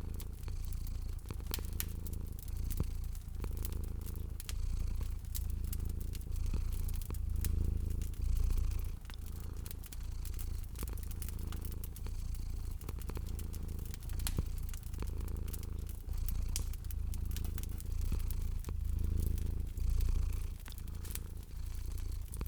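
Domestic cat purring steadily in a low rumble that swells and eases about every two seconds, mixed with the sharp irregular pops and crackles of a wood fire.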